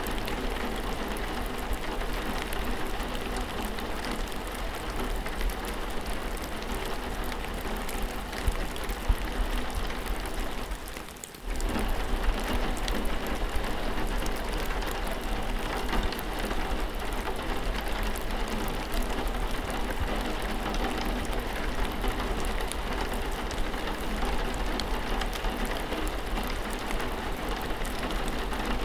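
Steady rain falling, an even hiss with scattered patter of drops. About eleven seconds in it briefly drops away, then cuts back in suddenly.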